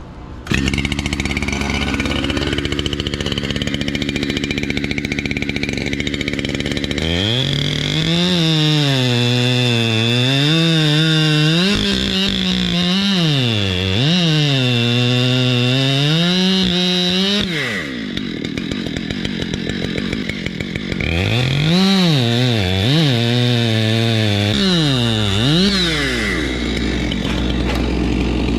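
Chainsaw cutting wood: it comes in suddenly about half a second in, and from about a quarter of the way through its engine pitch rises and falls again and again as it revs and loads in the cut. It eases for a few seconds about two-thirds through, then revs through another stretch of cutting.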